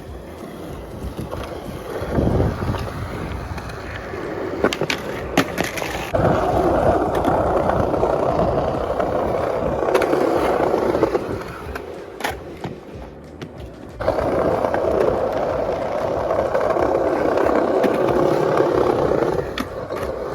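Skateboard wheels rolling over pavement in two long runs, each several seconds, with a few sharp clacks of the board in between.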